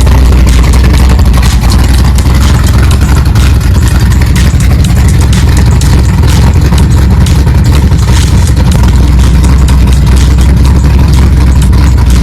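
Car engine idling steadily, a loud, deep rumble.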